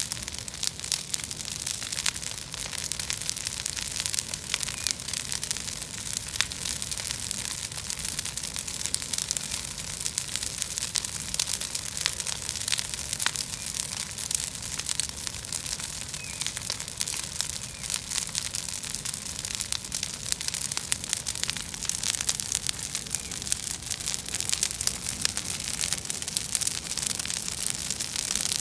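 Bonfire of dry weeds burning, crackling and popping continuously over a hiss, with a low rumble underneath.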